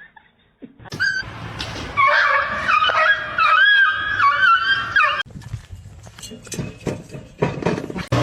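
A pet animal's high, wavering cry lasting about three seconds, followed by a series of sharp clicks or knocks.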